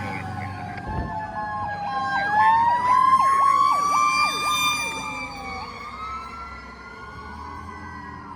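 Several emergency vehicle sirens sounding at once: a slow wail gliding down and back up, with a faster yelping siren over it from about 2 s to 6 s. The sirens fade toward the end.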